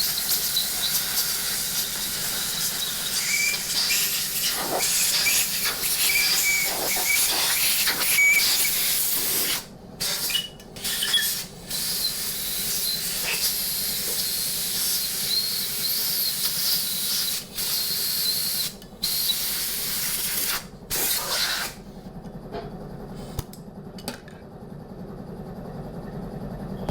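Compressed-air blow gun hissing as it blows debris out of the bolt holes of a Ford 260 V8 engine block. It runs in long blasts, with several short pauses in the middle, then stops about five seconds before the end.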